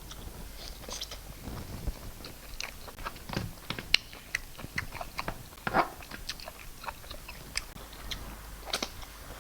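Close-up mouth sounds of a person eating rice and stew: chewing with irregular wet smacks and clicks, a few of them sharper, about four and six seconds in.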